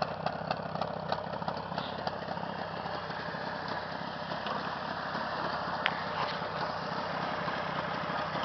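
Jawa 638's two-stroke twin engine idling steadily, warmed up after a ride.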